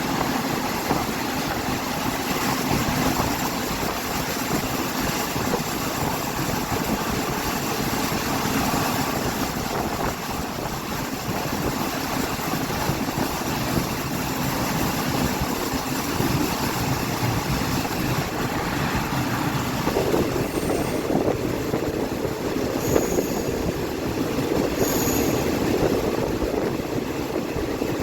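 Passenger train running on the track through a curve: a steady rumble of wheels on rails, with a few brief high wheel squeals near the end.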